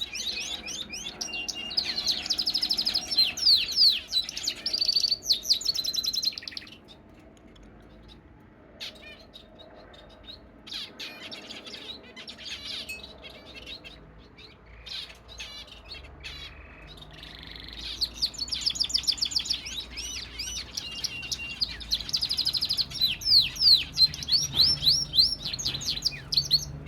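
Fife canary singing: two long bursts of song made of fast rolling trills and repeated high notes, one at the start and one in the last third, with soft scattered chirps in between.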